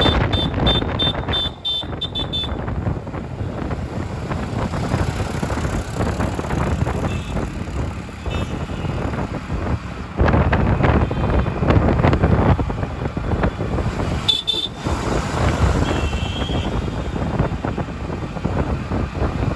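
Busy road traffic with engines running and several vehicle horns honking: a rapid string of short beeps at the start, more beeps about three-quarters of the way through.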